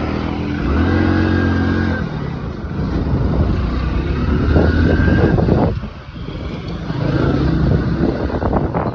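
Motorcycle engines running and revving in a large group of bikes, the pitch rising and falling as they pull away and pass, with a brief lull about six seconds in.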